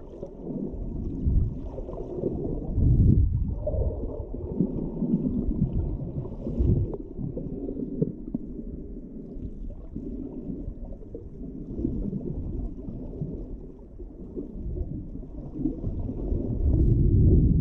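Humpback whale sounds: low, wavering moans and rumbles that rise and fall unevenly, with nearly all of the sound low-pitched.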